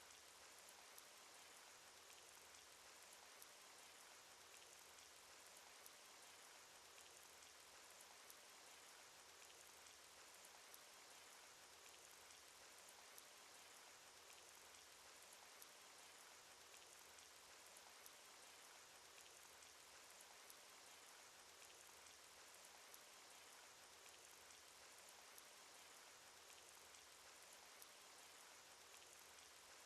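Faint, steady rain sound effect: an even hiss of rainfall with small scattered drop ticks.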